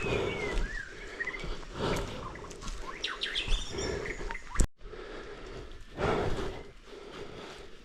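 Birds chirping, with a cluster of short chirps about three seconds in, over repeated scuffing noises every second or two. A sharp click and a brief cut-out just after halfway.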